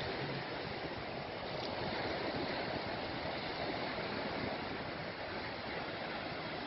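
Steady wash of surf on a beach, an even rushing noise without distinct breaks.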